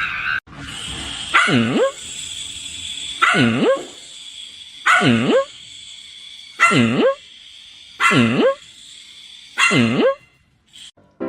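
Dog barking six times at an even pace, each bark a short call that dips in pitch and rises again, over a steady background hiss.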